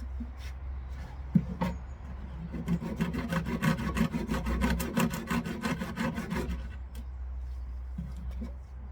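Rapid, even scraping strokes on wood, many a second for about four seconds in the middle, with a light knock or two before them.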